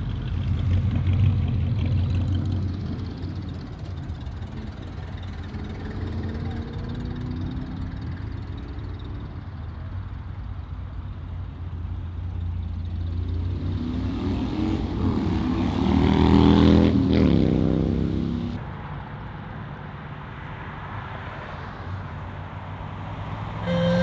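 Muscle car engines and exhausts rumbling as cars pull away one after another. One car accelerates past close by, getting loudest about two-thirds of the way in, its engine pitch rising and then falling as it goes past.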